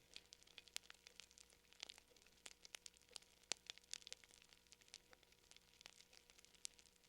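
Faint fire crackling: irregular small pops and snaps, several a second, with a louder snap about three and a half seconds in.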